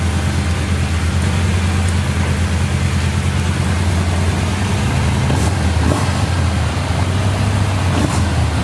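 Yamaha SCR 950's air-cooled 942 cc V-twin running steadily under way, with an even hiss over it. One strand of its low note drops away about five seconds in.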